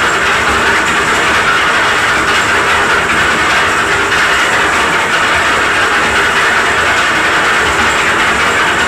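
Concrete mixer running with a loud, steady mechanical noise that does not change.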